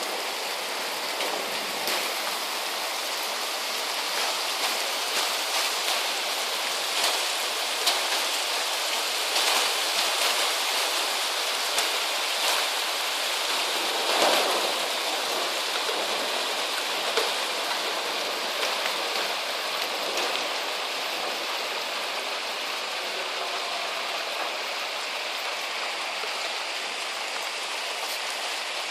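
Heavy rain falling steadily, with many sharp drop hits scattered through it, busiest in the middle, where it briefly swells.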